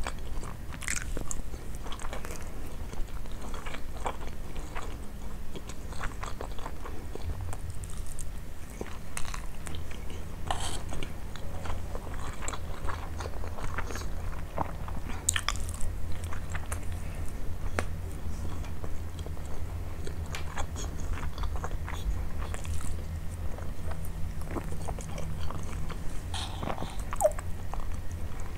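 Close-miked chewing of a mouthful of basmati rice with meat: irregular wet smacks and small clicks, with a low steady hum underneath.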